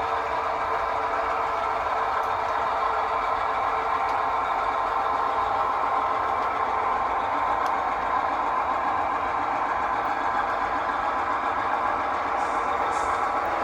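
Diesel locomotive engine running steadily, from a recording of a full-size locomotive. A faint higher hiss comes in near the end.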